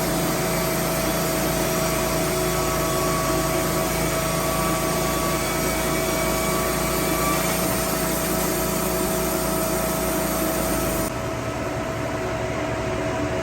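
Small engine running steadily at a constant speed, with a held whine over its hum. A little before the end the sound changes abruptly, turning duller and slightly quieter.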